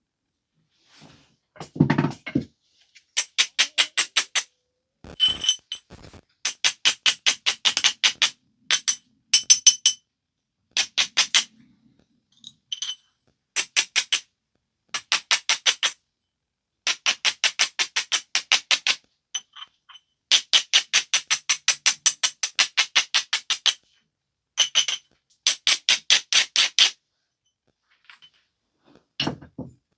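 Flint biface edge being ground with an abrader stone in quick back-and-forth strokes, about six a second, in runs of a second or two, each stroke a short scratchy squeak. A dull knock about two seconds in and again near the end.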